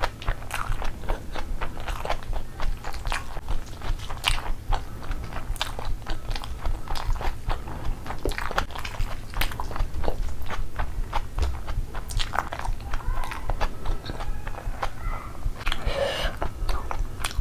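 Close-miked eating sounds: wet chewing and lip-smacking with many sharp mouth clicks on a mouthful of spicy fried rice and curried chicken, while a hand pulls pieces off a gravy-soaked whole chicken.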